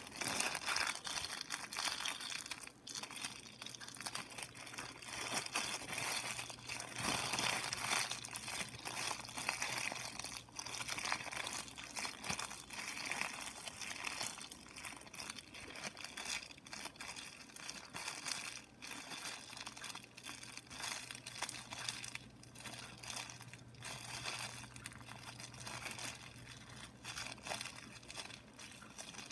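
Continuous close-up crinkling and crackling, like a crinkly material being crumpled and handled right at the microphone as an ASMR trigger. It grows a little softer in the second half.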